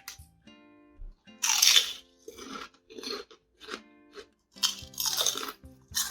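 Crisp fried rice-paper seaweed chips (kimbugak) being bitten and chewed: two loud crunching bites, about a second and a half in and again about three seconds later, each followed by quieter chewing crunches. Background music plays underneath.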